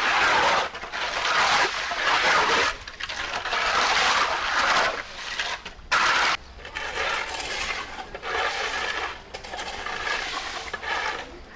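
Wet mud and rainwater being cleared off a road surface by hand: repeated sweeping and scraping strokes, each a second or two long, with short breaks between them.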